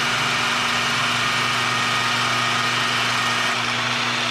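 Tire grinder running steadily while grinding rubber off a dirt late model racing tire: a steady motor hum with an even grinding hiss over it.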